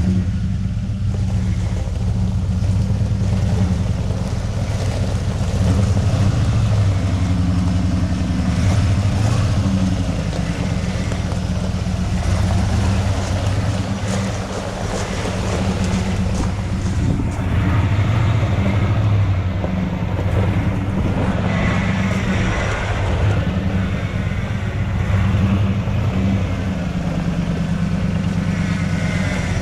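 1994 Ford Bronco's engine idling steadily, a low even rumble that holds its pitch.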